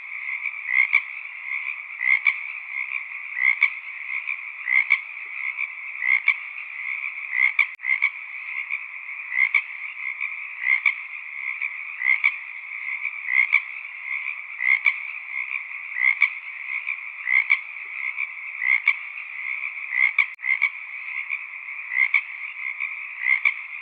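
A chorus of frogs calling: a steady background of croaks, with a louder call repeating roughly every second and a quarter.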